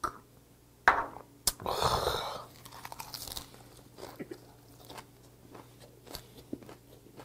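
A shot of liquor gulped down, a sharp click about a second and a half in, and a loud breathy exhale just after. Then close-up chewing of a gwamegi and cabbage wrap, with small crunches and wet mouth clicks.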